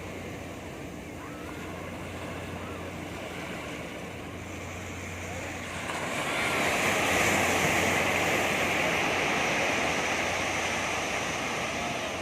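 Sea waves on a beach: a steady wash of surf, with one wave breaking louder about halfway through and slowly washing out.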